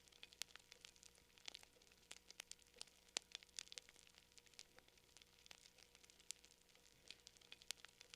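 Campfire crackling: irregular sharp pops and snaps of burning wood, several a second, over a faint hiss.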